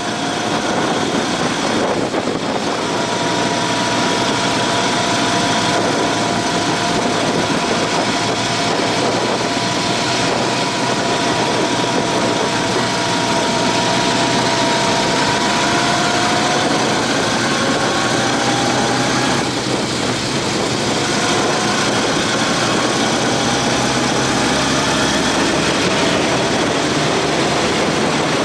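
Honda CB750 inline-four motorcycle engine running steadily on the move under a constant rush of wind noise; its pitch eases down and climbs a little again in the second half.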